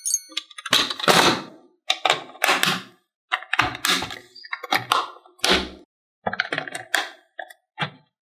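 A series of irregular knocks and clattering thunks, about ten in all, typical of plastic toy pieces and diecast cars being handled and set down on a hard surface.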